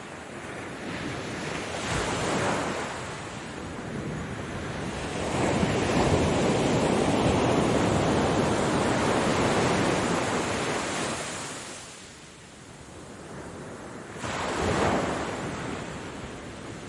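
Ocean waves breaking and washing ashore: a long, loud surge about five seconds in that fades away, with smaller swells before it and again near the end.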